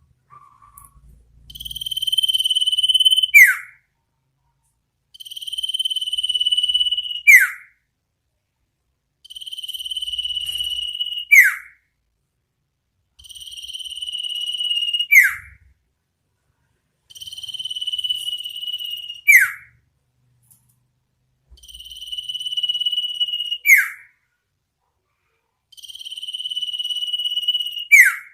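Iora (sirtu) calling: a drawn-out, buzzy high note of about two seconds, ending in a quick downward-sweeping 'cipow' note, repeated evenly about every four seconds, seven times.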